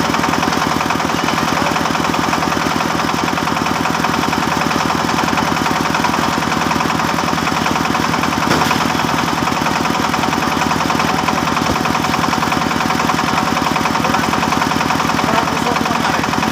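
Engine-driven wood saw running steadily with a rapid, even chug, sawing teak timber.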